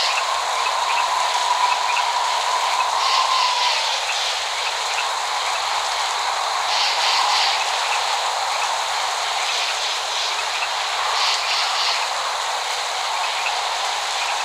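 Steady rain, an even hiss with little low end, with short clusters of high ticks every few seconds.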